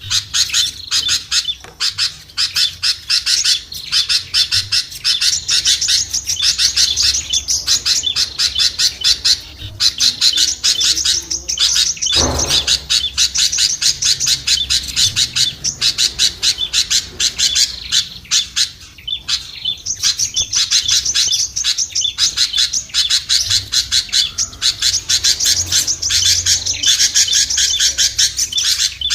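Dense, rapid chirping and chattering of many small songbirds calling over one another, a noisy lure-call track for attracting small birds. A single short thump comes about twelve seconds in.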